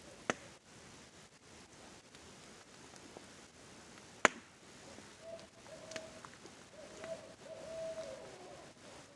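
Campfire crackling, with two sharp pops, the louder one about four seconds in, and a few smaller ticks. In the second half an owl hoots faintly in a few drawn-out notes, the last one dropping in pitch.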